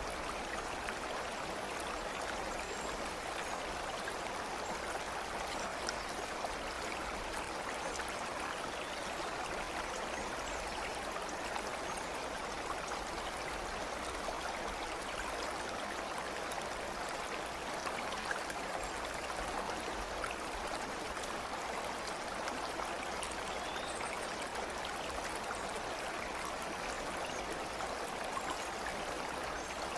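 Stream water flowing steadily, an even, continuous rush of running water.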